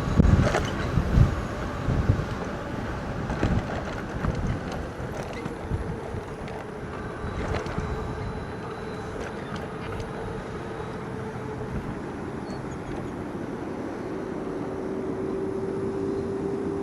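Riding an electric bike: wind buffeting the microphone in gusts, strongest in the first few seconds, over steady road and tyre noise, with a faint steady whine that grows clearer near the end.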